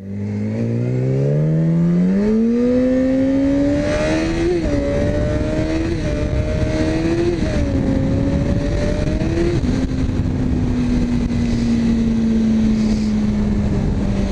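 Yamaha R6's inline-four engine pulling away and accelerating hard, its pitch climbing and then dropping at each of several quick upshifts before settling into a steady cruise that slowly falls in pitch. Wind rushes over the microphone.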